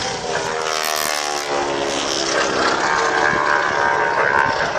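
Boeing Stearman biplane's radial engine and propeller running in a display pass, its pitch falling as it goes by.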